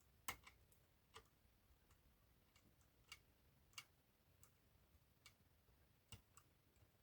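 Faint, irregular small metallic clicks, roughly one a second, from a pick working the levers inside an eight-lever Border lever lock.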